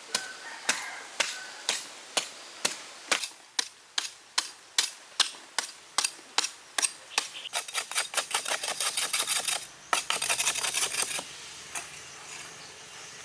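Sharp knocks, about two a second at first and speeding up, running into a fast dense rattle for a few seconds before it stops.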